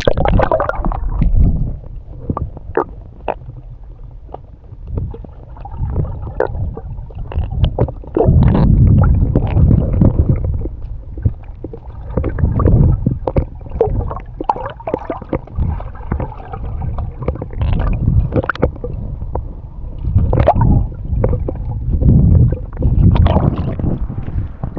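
Sea water gurgling and sloshing around a camera held underwater, heard muffled, with surges that rise and fall every second or two and scattered clicks and knocks.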